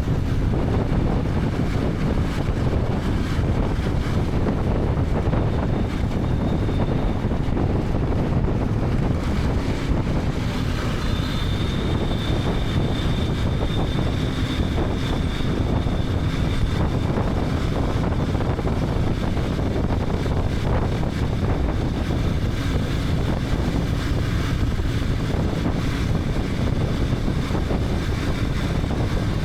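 KTM 250 Adventure's single-cylinder engine running steadily on the move, mixed with wind rushing over the helmet-camera microphone and road noise. A faint high steady whine joins about ten seconds in.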